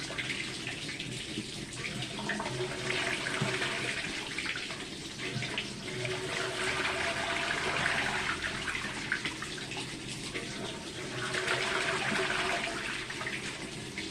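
Water running from a tap and splashing, the flow swelling and easing several times.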